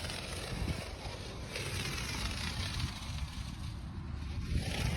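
Heavy wind buffeting the microphone, a continuous low rumble, with a rushing hiss that swells from about a second and a half in until near the end.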